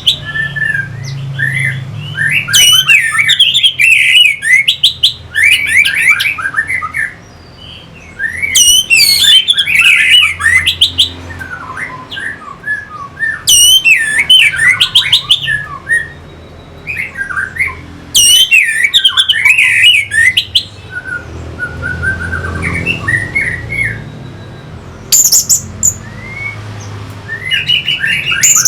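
Orange-headed thrush singing: loud bursts of fast, varied whistled notes with sharp pitch sweeps, one phrase after another with short pauses between.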